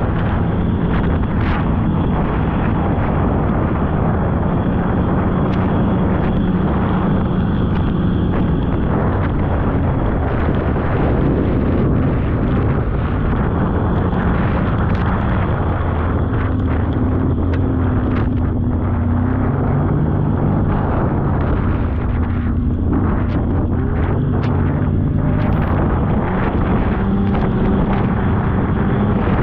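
Polaris snowmobile engine running under way, with a steady rush of wind and track noise over the microphone. The engine note shifts up and down several times in the second half as the throttle changes.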